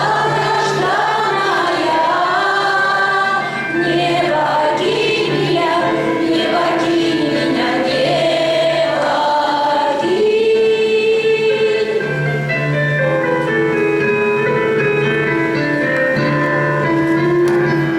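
A choir singing with accompaniment, holding long notes over a steady low note.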